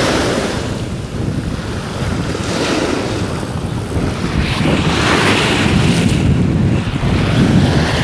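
Sea waves washing against a rock breakwater, with wind blowing hard across the microphone; the noise swells and eases every couple of seconds.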